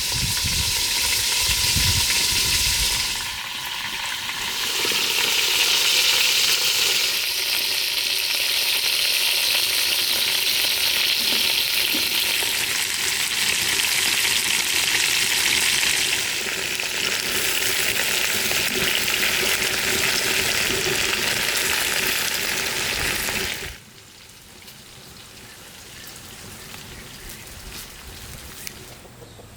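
Food frying in a hot pan: a steady loud sizzle that stops abruptly about 24 seconds in, leaving a much quieter background.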